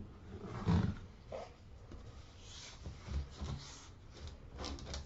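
Faint, scattered rubbing and light knocks of things being handled, in short irregular bursts.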